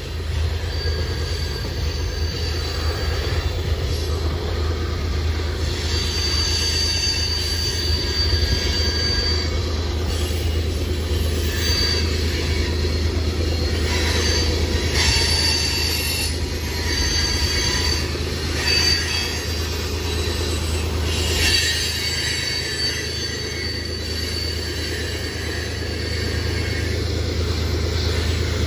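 Coal hopper cars of a long freight train rolling past, with high-pitched wheel squeal that comes and goes again and again. Under it runs the steady low drone of the BNSF diesel locomotives at the rear of the train, growing a little louder near the end as they approach.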